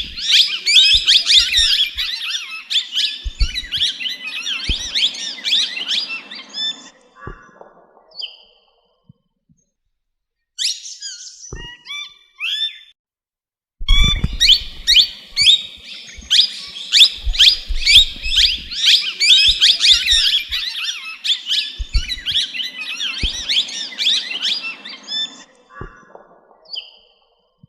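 Birds chattering densely, with rapid overlapping high chirps and squawks. The chattering comes in two long stretches, separated by a near-silent gap with a few short calls, and there are occasional low thumps.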